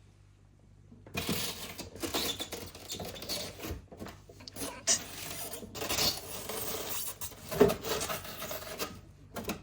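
A container being shoved into a freezer, with things scraping and rubbing against each other and knocking irregularly; one sharp knock about two-thirds of the way through.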